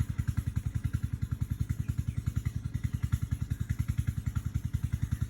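An engine running at a steady idle, with an even, rapid throb of about nine beats a second and a light rattle over it.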